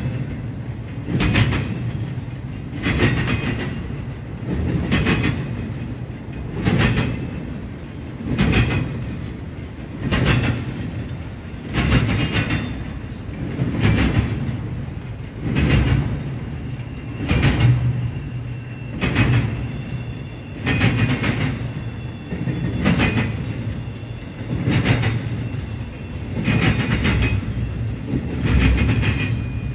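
Freight train cars rolling past at speed: wheels clacking in regular beats about every two seconds over a steady low rumble.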